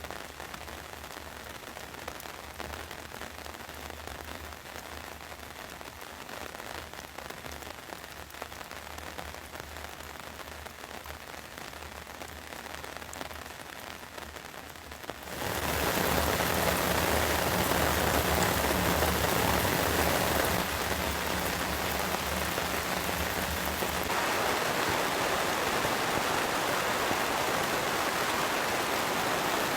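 Steady rain falling, becoming suddenly much heavier and louder about halfway through.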